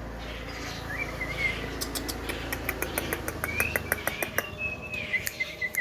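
Javan myna (jalak kebo) calling: short whistled glides, then a rapid run of sharp clicks from about two seconds in, with more whistled notes near the end.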